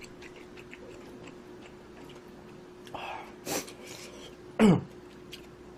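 Small chewing and utensil clicks while eating ramen and rice, then a short burst and, about four and a half seconds in, the loudest sound: a brief throat clearing that drops sharply in pitch. A faint steady hum runs underneath.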